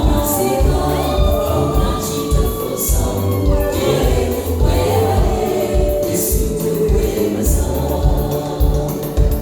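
A gospel choir singing over a steady beat with heavy bass.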